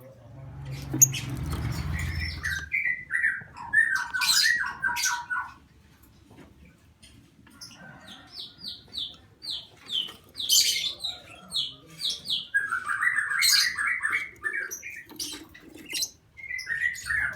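Lovebirds chattering: several runs of fast, short, high chirps and squawks. A low rumble is heard in the first two seconds.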